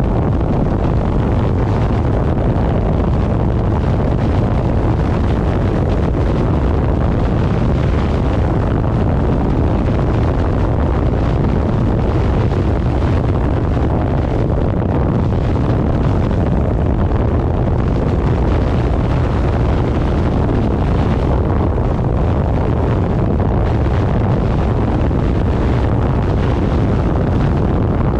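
Steady, heavy wind rush on the microphone of a motorcycle moving at road speed, the engine's noise buried beneath it.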